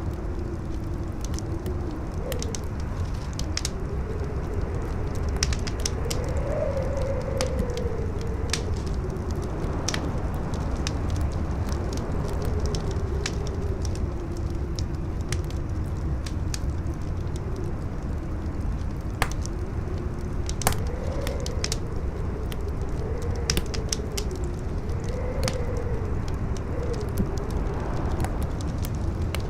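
Campfire crackling, with sharp pops and snaps scattered throughout, over strong wind: a steady low rumble and a howl that wavers up and down in pitch.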